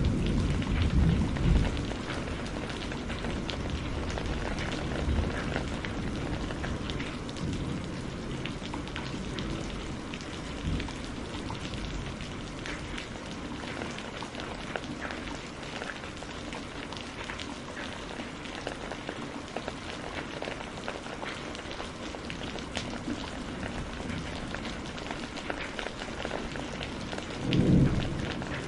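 Steady rain falling, with the low rumble of thunder dying away in the first couple of seconds and another brief thunder rumble near the end.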